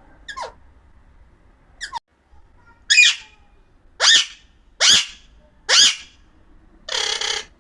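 Pet Alexandrine parakeet calling: two faint short calls, then four loud, sharp squawks about a second apart, ending in a harsh screech about half a second long.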